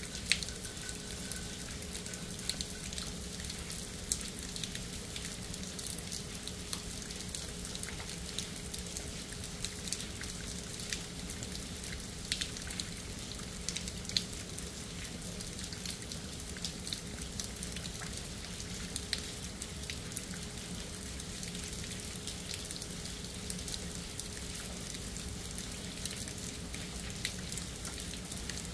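Steady rain falling, with many individual drops pattering close by over a constant hiss. A faint steady hum lies beneath the rain.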